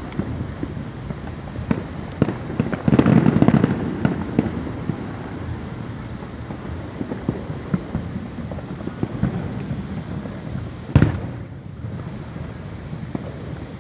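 Fireworks going off: a string of sharp pops and crackles, with a dense spell of crackling about three seconds in and one loud bang near the end.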